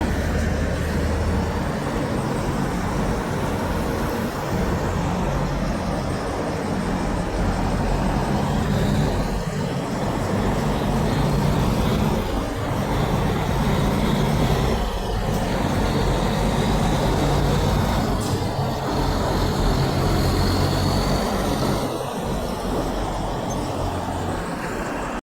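Road traffic with heavy trucks: a steady low diesel engine rumble over tyre and road noise, with no horn blast.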